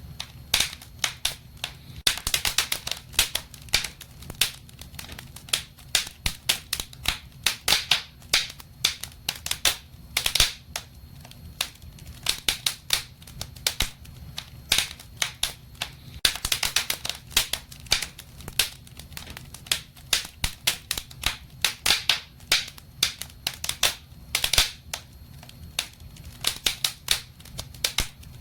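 Wood fire burning in a fireplace, crackling and popping in quick irregular clusters over a low steady rumble of the flames.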